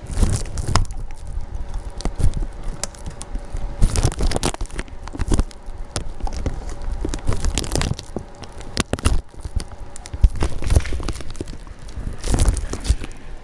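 Crunching through deep snow in slow, irregular steps a second or two apart, with rustling and low rumble on the microphone between them.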